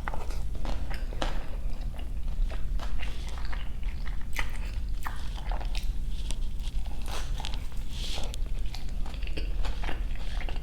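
Close-miked mouth sounds of biting and chewing a beef jianbing wrap, with irregular soft crunches and smacks.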